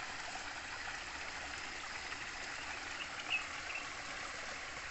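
A small forest stream running steadily over rocks, with a short bird call about three seconds in.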